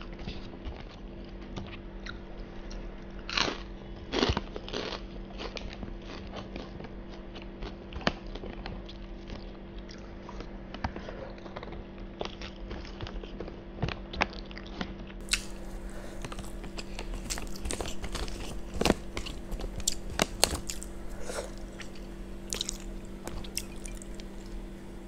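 Close-miked eating sounds: chewing rice with gulai sauce, with scattered wet mouth clicks and smacks, and crinkles of the paper wrapper as the rice is gathered up by hand.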